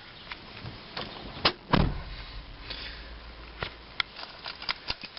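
A car door of a 1999 Pontiac Grand Am shuts with a single thump about two seconds in, followed by a brief low rumble. Scattered small clicks and rattles from the keys being handled come before and after it.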